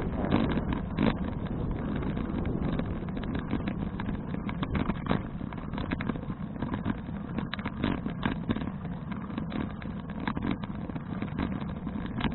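Wind rumbling on an action camera's microphone while riding a folding bicycle, with frequent small rattles and knocks from the bike over the road surface.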